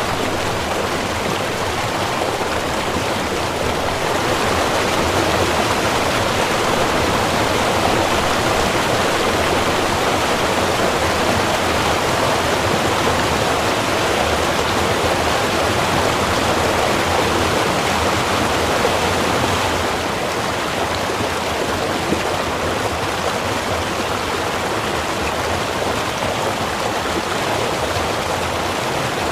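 Small river running: a steady rushing and burbling of flowing water.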